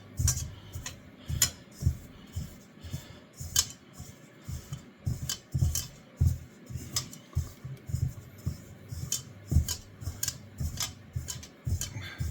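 Hands rubbing fat into flour in a mixing bowl for dumpling dough: irregular light knocks and clicks of hands and bowl, with soft low thumps, one to three a second.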